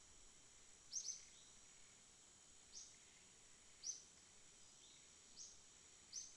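Faint night ambience of calling insects: a steady high-pitched trill, with short, sharp high chirps about once a second over it.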